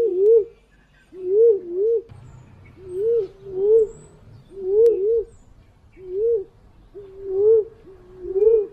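Wild pigeon cooing, the punai/walik call used as a hunting lure: a low phrase of two rising-and-falling coos, repeated about every one and a half seconds, six or seven times.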